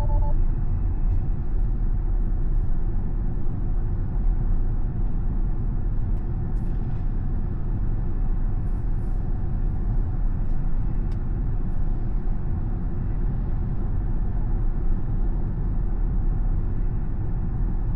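Steady road and wind noise inside the cabin of a Tesla electric car driving along: a low, even rumble with no engine note and a few faint ticks.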